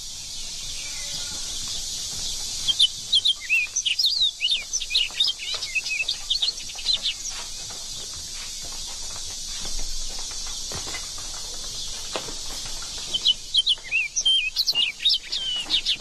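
Small songbirds chirping in two spells of quick, rapid calls, over a steady high hiss of outdoor ambience.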